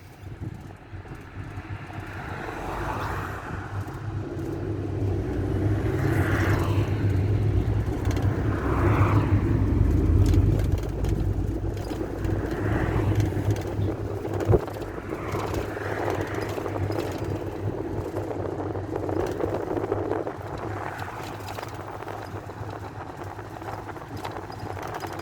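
Engine and road noise inside the cabin of an old Ford route-taxi minibus on the move. It grows louder as the bus picks up speed through the first ten seconds or so, then eases off. There is a single sharp knock about halfway through.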